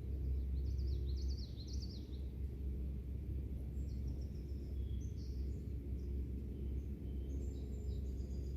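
Wild birds chirping in several short bursts of quick, high calls over a steady low outdoor rumble.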